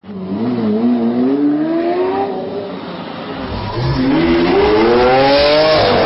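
Car engine accelerating hard: its pitch climbs, drops back about three seconds in, as at a gear change, then climbs again.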